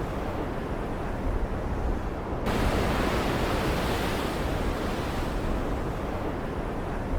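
Stormy-sea ambience: a steady rush of ocean waves and rain. About two and a half seconds in, a brighter surge of hiss comes in suddenly and then slowly fades, like a wave breaking and washing back.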